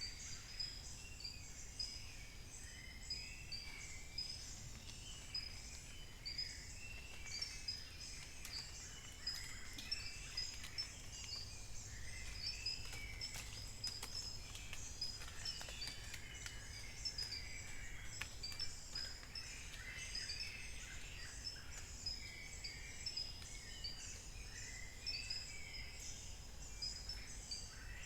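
Dawn chorus of many birds calling and singing at once: dense overlapping chirps and short repeated high notes, over a steady low background rumble.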